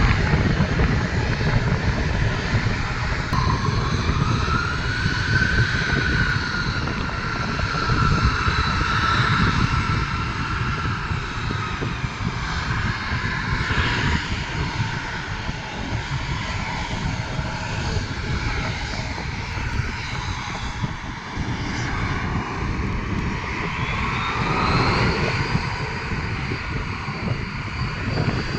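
Regional airliner's engines running at takeoff power: a steady loud rumble with an engine whine that rises a few seconds in, slowly drops away, then rises again near the end.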